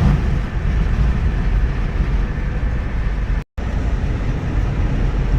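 Steady road and engine rumble heard from inside a moving car's cabin. The sound cuts out completely for a split second about three and a half seconds in.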